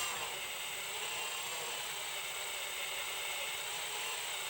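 Electric drill running steadily as it bores a hole into the TR6060 six-speed transmission case for a driveshaft-loop mounting bolt; the whir stops abruptly at the end.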